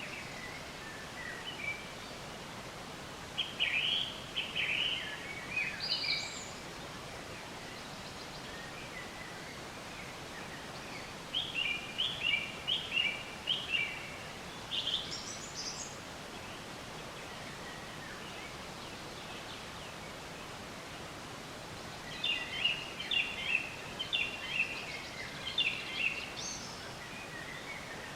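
A songbird sings three bouts of quick chirping notes, each ending in a few higher rising notes, about eight to ten seconds apart, over a steady background hiss.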